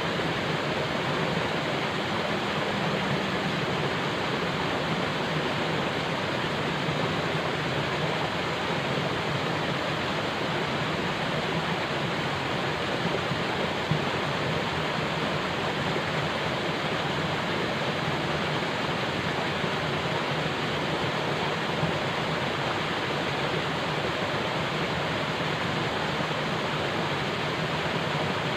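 Falling water: a steady, unbroken rush of water with no pauses or changes.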